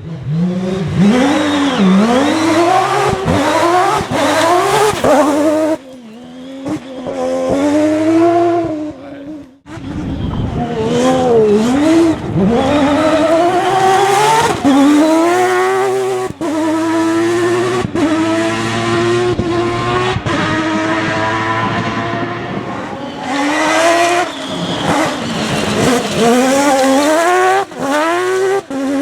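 Mazda rotary engine of a Peugeot 205 rally prototype running hard. Its pitch rises and falls again and again with throttle and gear changes, and the sound drops away briefly about six to ten seconds in before it picks up again.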